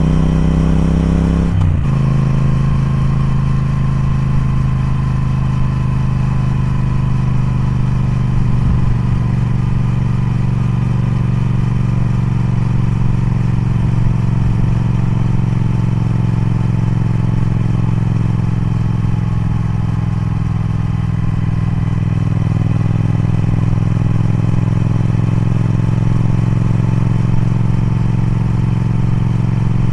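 Triumph Speed Twin's parallel-twin engine running under way: the revs climb briefly, drop sharply about two seconds in, then hold nearly steady with the pitch slowly sinking.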